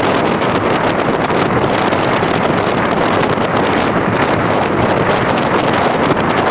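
Steady, loud rush of wind buffeting the microphone on a moving vehicle, with the vehicle's running noise underneath.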